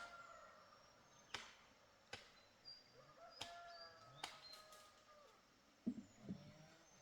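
Faint chickens: the tail end of a rooster's crow at the very start, a thin drawn-out call in the middle, and low clucks near the end, with a few sharp clicks scattered through.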